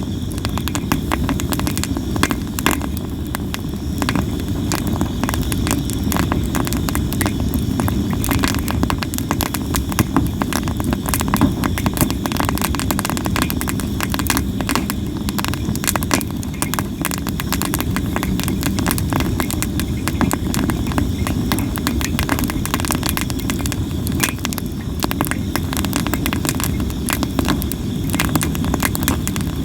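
Sawara (Japanese cypress) firewood burning in a campfire, crackling and popping constantly, over a steady low rumble.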